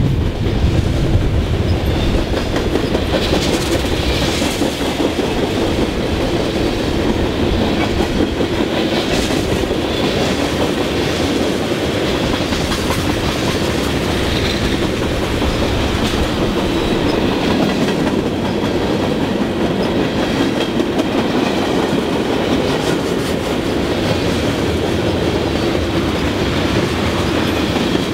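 Freight train cars (boxcars and tank cars) rolling steadily past close by, their wheels clacking over the rail joints in a continuous loud rumble.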